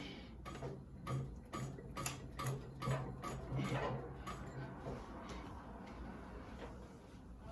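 Cylinder-arm walking-foot sewing machine stitching slowly, with a click at each stitch, a few a second, over a low motor hum. The stitching stops about five seconds in.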